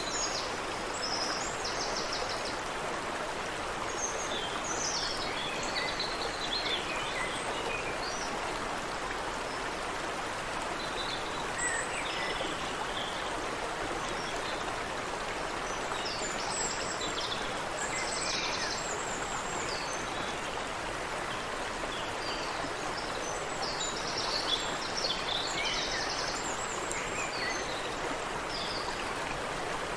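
Creek water running steadily, with small birds chirping and trilling in scattered bursts over it.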